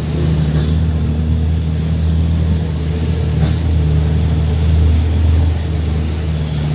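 Heavy truck's diesel engine running steadily with a low, even drone, with two short hisses about half a second and three and a half seconds in.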